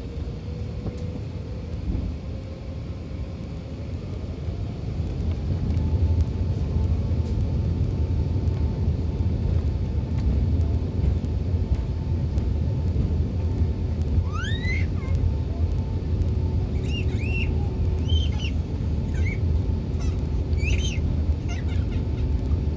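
Airbus A380's four jet engines spooling up to takeoff thrust, heard from inside the cabin: a whine rises in pitch and holds steady after about six seconds, over a deep rumble that grows louder as the takeoff roll begins. A few brief high squeaks come in the latter half.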